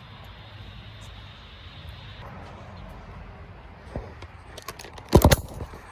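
A steady low background rumble, then a few scattered clicks and a quick cluster of loud knocks near the end, like hard objects being handled or set down.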